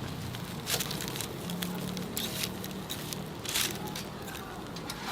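Oak wood fire crackling, with sharp irregular pops over a low steady hum.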